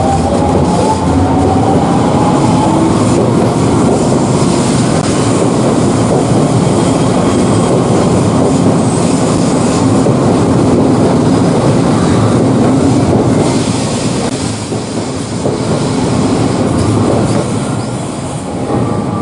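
Electric train running on rails, with loud wheel and track noise and a rising motor whine in the first few seconds as it gathers speed. It drops somewhat in level about two-thirds of the way through.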